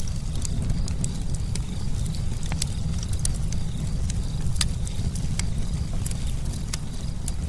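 Campfire burning: a steady low rumble under frequent, irregular sharp crackles and pops from the wood.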